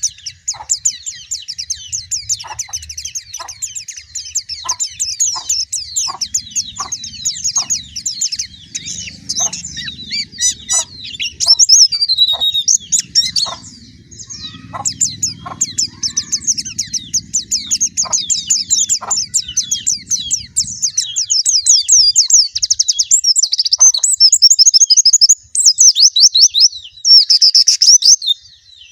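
Pleci (white-eye) singing a fast, continuous, high-pitched twittering song.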